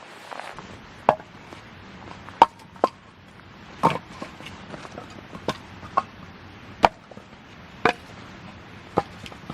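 Sharp knocks, about nine single blows at uneven intervals roughly a second apart, like a tool striking wood.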